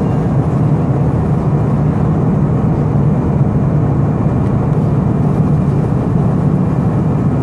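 Steady cabin noise inside an Airbus A319 during descent: a constant drone of engines and airflow, heaviest in the low range.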